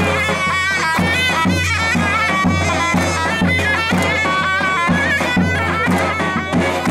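Zurna and davul playing loud folk music: a shrill, wavering reed melody over a steady drum beat of about two strokes a second.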